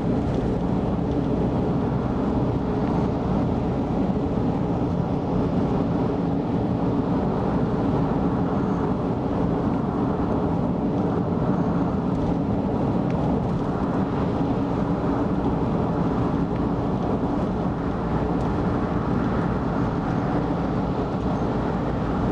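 Car driving at expressway speed: steady, low tyre and engine noise that stays even throughout.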